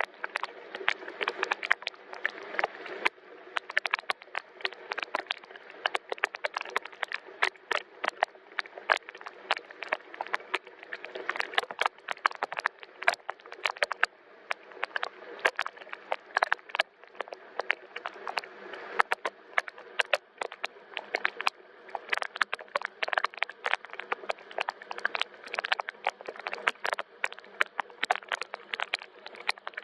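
Rain falling: a steady hiss of rainfall with many close, irregular sharp drop hits throughout.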